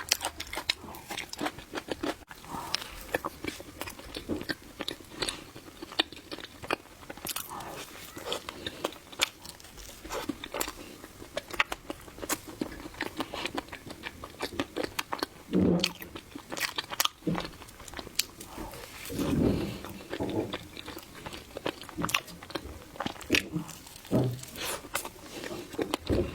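Close-miked chewing of soft matcha mille crepe cake: a steady stream of wet mouth clicks and smacking, with a few louder, lower mouth sounds in the second half.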